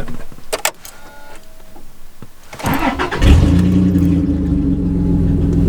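Truck engine cranked over and catching about three seconds in, then settling into a steady idle: its first start on a freshly flashed two-step tune. Before it, a few clicks and short faint beeps.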